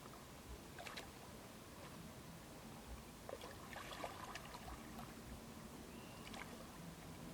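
Faint shallow water sloshing and splashing, with a few short splashes about a second in, a cluster around the middle, and one more near the end.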